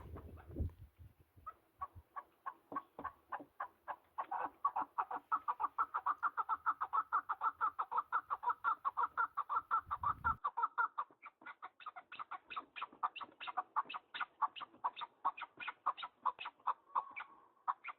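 Partridge calling: a long run of short, rapid clucking notes that start sparse and build to a steady series of about four a second.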